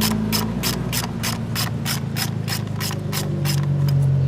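Socket ratchet clicking in an even run of about four clicks a second, thinning out near the end, as a bolt is undone to take out an ignition coil, with a steady low hum underneath.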